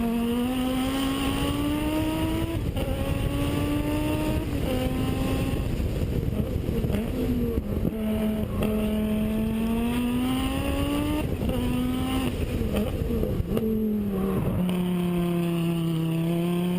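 Rally car engine pulling hard through the gears: its pitch climbs, then drops back at each upshift, several times over. Near the end it falls away and runs at a lower, steadier pitch.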